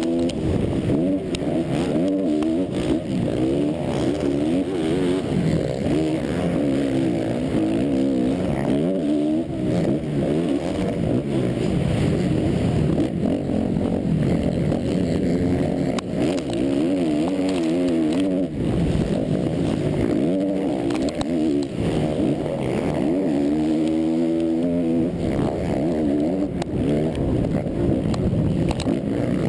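Motocross race bike's engine heard from an onboard camera, revving hard and constantly rising and falling in pitch as the rider works the throttle and gears around the track, with one clear climbing rev about three quarters of the way through.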